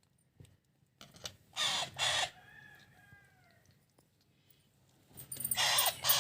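Alexandrine parakeet chicks giving harsh, raspy food-begging squawks while being hand-fed. Two loud squawks come about a second and a half in, followed by a fainter drawn-out call, and another pair of loud squawks comes near the end.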